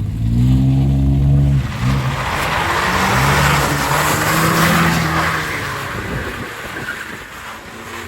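Pickup truck doing a burnout: engine revved hard, rising in pitch, then held high while the spinning tyres give a loud hiss from about two seconds in, fading out near the end.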